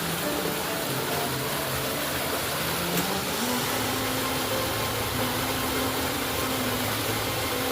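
Waterfall rushing as a steady, even roar of falling water, with a few low sustained tones that hold and step in pitch underneath.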